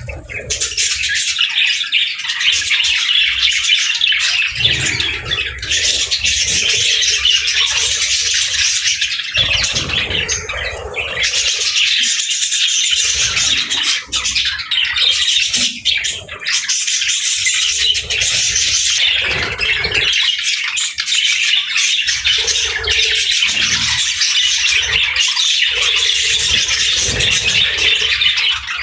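Budgerigars chattering without pause in a dense, high-pitched stream of chirps and warbles.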